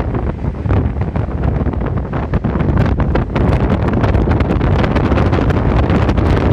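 Gale-force wind blasting across the microphone: a loud, unbroken low rumble full of crackle.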